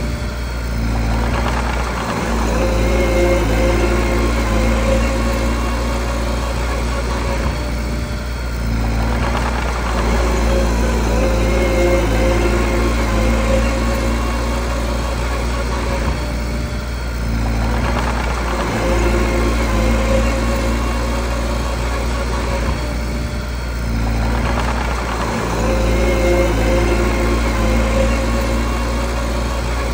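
Mini bulldozer's diesel engine working steadily with a deep hum, swelling and easing about every eight seconds as the load comes on and off while it pushes stone and rock.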